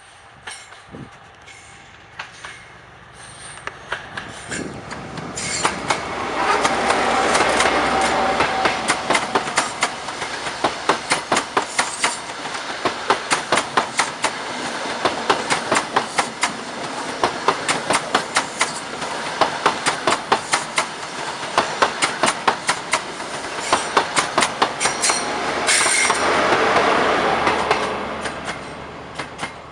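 High Speed Train with Class 43 diesel power cars passing close by: the leading power car's engine grows louder and peaks as it goes past, then the coaches' wheels click rhythmically over the rail joints. Near the end the rear power car's engine swells again and the sound fades away.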